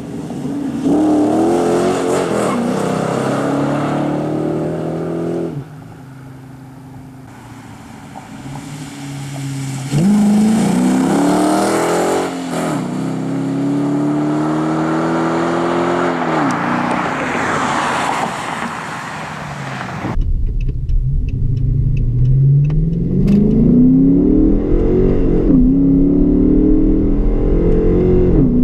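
Dodge Charger R/T's 5.7-litre Hemi V8 running through Magnaflow oval mufflers with the resonators deleted, accelerating hard several times: the engine pitch climbs and drops back at each gearshift, with a quieter lull about six seconds in.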